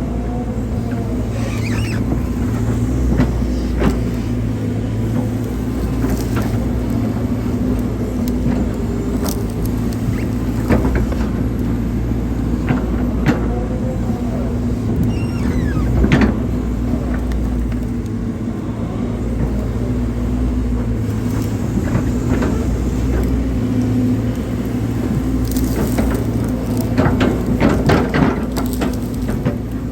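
Hydraulic excavator's diesel engine running steadily while digging a ditch, with scattered knocks and short squeaks from the arm and bucket working, and a cluster of knocks near the end.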